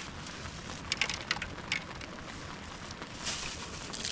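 Wood cracking and snapping: a quick cluster of sharp cracks about a second in, over a steady hiss.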